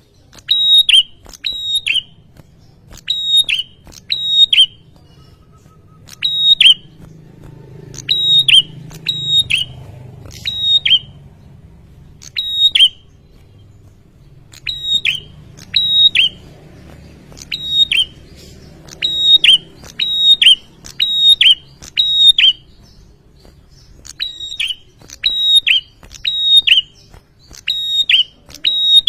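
Male prinia (prenjak) calling: loud, sharp, piercing notes in quick doublets and triplets, repeated about once a second with brief pauses, the insistent call bird keepers use to provoke rivals into answering.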